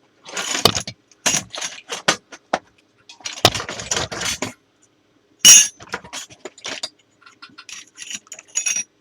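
Small metal saw blades, sintered-diamond slitting-type discs, clinking and rattling against other metal parts as they are picked out and handled. It is an irregular run of clinks and knocks, with one sharp, bright clink about five and a half seconds in.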